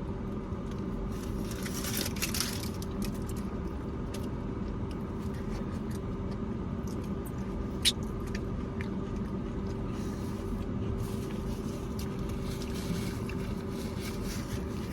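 Steady low engine hum, with quiet eating noises over it; a brief rustle about two seconds in and a sharp click near eight seconds.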